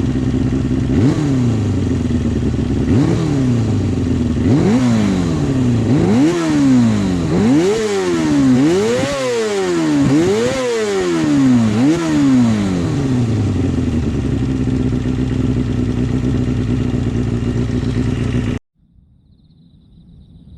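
Kawasaki Balius II 250 cc inline-four idling through an RPM 4-into-2-into-1 collector exhaust and being blipped about eight times, the revs climbing higher toward the middle and each time dropping straight back to idle. The engine sound cuts off abruptly near the end.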